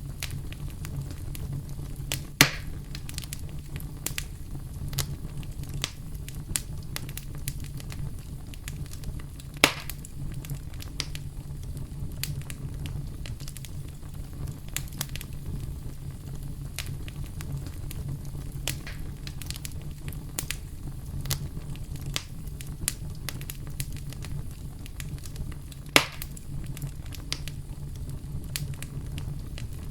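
Campfire crackling with many small pops and three louder snaps, over a steady deep brown-noise rumble.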